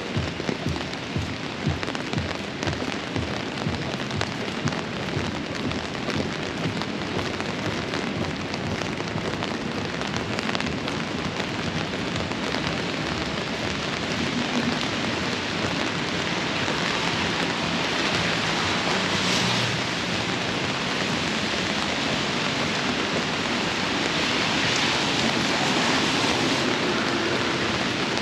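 Heavy rain pouring steadily, with irregular low taps in the first few seconds and the rush of rain swelling louder in the second half.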